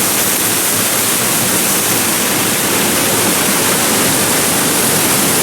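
Waterfall: the loud, steady rush of falling water, unchanging throughout.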